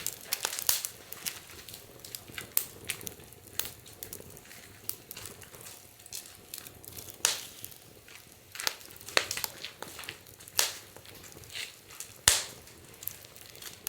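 Wood fire crackling in a fire-pit stand, with irregular sharp snaps and pops, a few of them louder.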